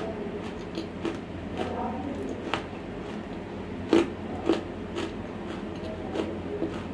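Close-miked chewing of dry, semi-roasted edible clay: irregular crisp crunches, the sharpest about two and a half and four seconds in.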